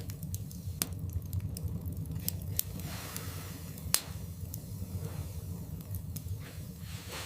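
Wood fire burning in a fireplace: a steady low rumble of flames with irregular sharp crackles and pops from the logs, one pop louder than the rest about four seconds in.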